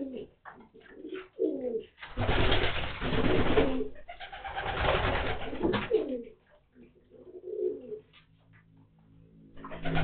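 Racing (homing) pigeons cooing repeatedly while bathing in a tray of water, with two long flurries of splashing a couple of seconds in that are the loudest sounds.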